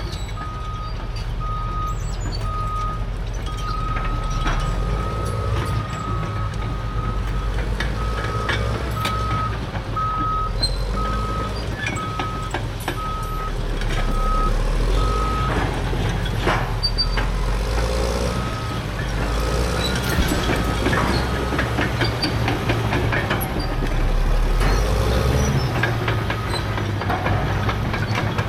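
Diesel heavy equipment working, with a low steady engine rumble and a reversing alarm beeping at an even pace. The beeping stops a little over halfway through and comes back briefly, amid scattered sharp cracks and clanks.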